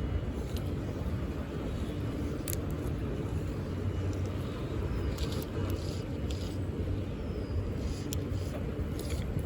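A boat's motor running steadily with a low hum, with scattered short clicks and ticks over it.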